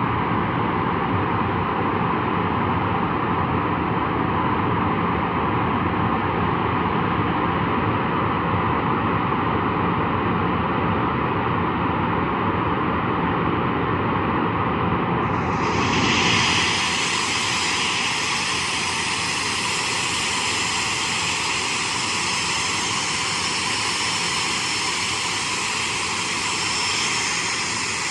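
Boeing 737-400's CFM56-3 turbofan engines running steadily on the ground during an engine run. About halfway through the sound abruptly turns brighter and thinner, with a stronger high whine and less low rumble.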